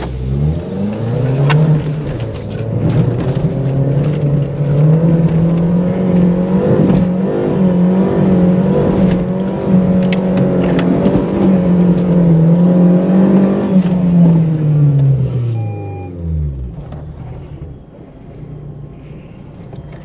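Jeep Renegade's turbo-diesel engine revving hard as it drives up a sand dune. The revs climb in the first second, are held high and wavering for most of the climb, then fall away near the end as the car fails to make it to the top.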